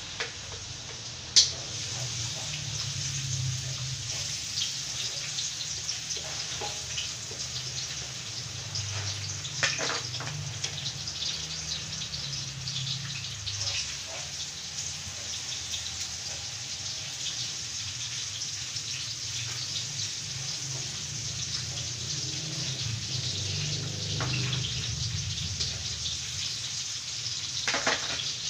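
Chopped garlic sizzling and crackling in hot oil in a large wok, a steady hiss throughout. A sharp clank of the metal spatula comes about a second in, with a few softer knocks of the spatula against the pan later as it is stirred.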